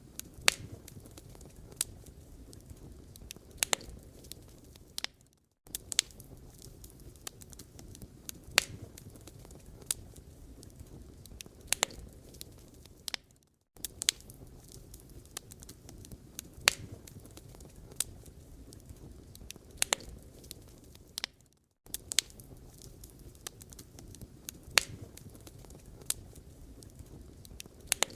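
Wood fire burning in a fireplace, crackling with irregular sharp pops and snaps over a low, steady hiss. The sound dips briefly to silence three times, about every eight seconds.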